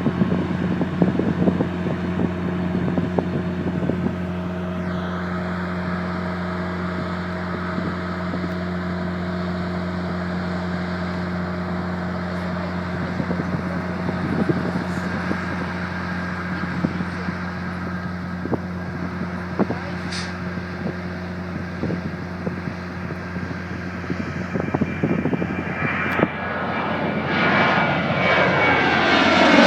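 Boeing 737 turbofan engines running with a steady drone and whine. Near the end the engines grow much louder, rising in pitch as they spool up.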